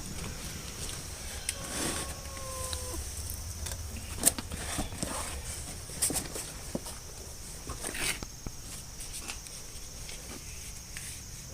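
Scattered clicks and knocks of parts and tools being handled while rummaging, over a steady high chirring of insects. A short drawn-out tone sounds about two seconds in.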